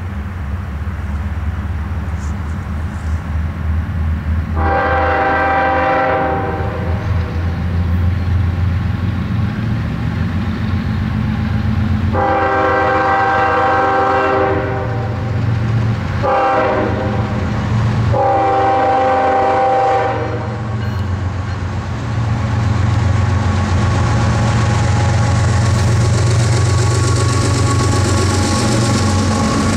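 CSX GE ES44AH diesel locomotives heading a freight train, the lead unit sounding its air horn in the grade-crossing pattern: long, long, short, long. A low diesel rumble runs underneath, and near the end the train noise grows as the locomotives pass close by.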